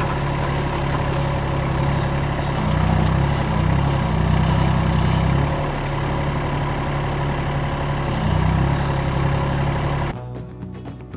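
Yanmar ViO25-4 mini excavator's diesel engine running as the machine works, its pitch rising for a few seconds in the middle and again briefly near the end as the hydraulics take load. The sound cuts off suddenly about ten seconds in.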